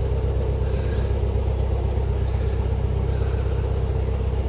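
Narrowboat's inboard diesel engine running steadily at cruising speed, a constant low rumble.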